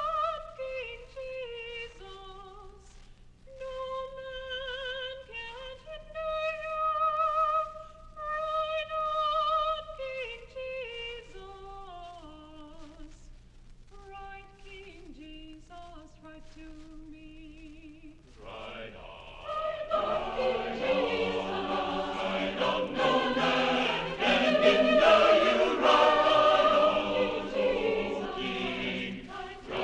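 A single high melodic line with vibrato, then a full choir comes in about eighteen seconds in and sings louder, many voices together.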